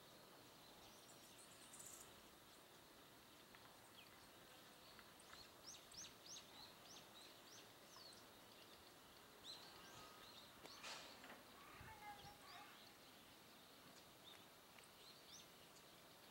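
Faint small birds chirping in short quick notes, mostly in the middle stretch, over a steady low background hiss.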